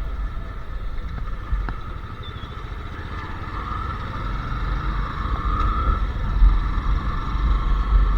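Royal Enfield Classic 350 Reborn's single-cylinder engine running with its rapid low exhaust thump as the bike rides along, getting louder through the second half.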